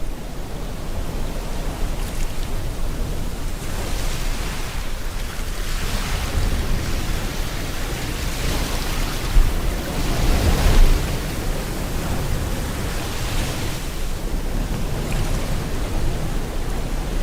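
Sea waves washing in one after another over a steady hiss of rain, each wave swelling and fading over a few seconds. The largest wave comes about ten seconds in.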